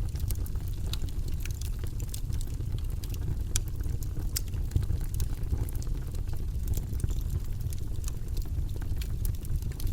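Campfire crackling: irregular sharp pops and ticks scattered throughout, over a steady low rumble.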